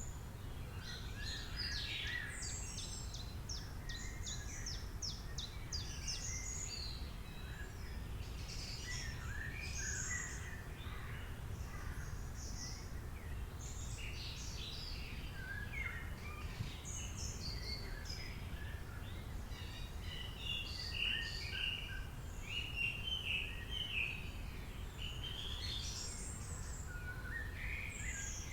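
Several birds singing and chirping over a steady low outdoor rumble, with busy, overlapping calls and quick trills.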